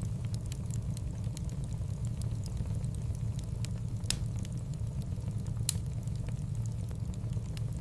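Wood fire burning in a fireplace: a steady low rumble of flames with frequent small crackles and two louder pops.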